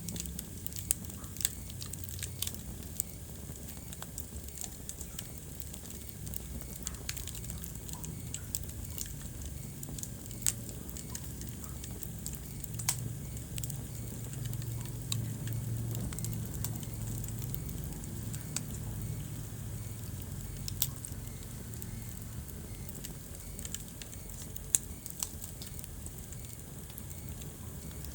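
Wood fire burning in a fireplace: scattered sharp crackles and pops, a few of them loud, over a low steady rumble of the flames.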